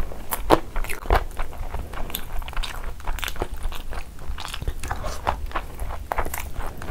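Close-miked chewing of a mouthful of chicken curry and rice: wet mouth sounds and irregular clicks.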